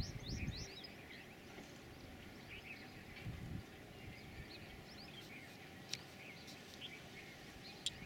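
Small birds chirping: a quick run of short downward-sweeping chirps in the first second, then scattered calls. A single sharp click about six seconds in.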